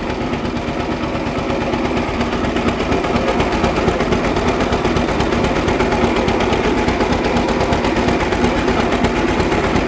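Model B tractor engine running steadily, its exhaust a rapid, even beat of pulses.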